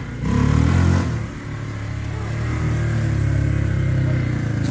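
Four-wheeler (ATV) engine revving hard for about a second, easing off, then pulling under steady throttle with its pitch climbing slowly, as the quad is driven in circles.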